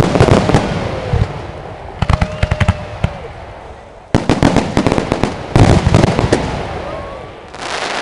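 Aerial fireworks exploding in rapid volleys of sharp bangs and crackles, in three clusters with quieter fading gaps between them, the longest volley in the second half.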